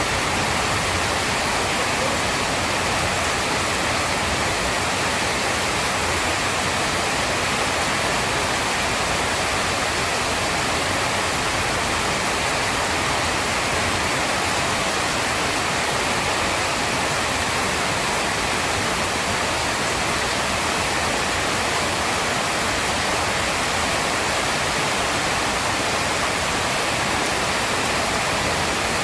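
Heavy rain pouring down as one steady, even hiss, with no thunderclaps.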